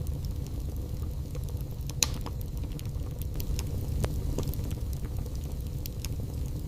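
Burning wood fire in a fireplace crackling over a steady low rumble, with many small snaps. The loudest pop comes about two seconds in, and another sharp one about four seconds in.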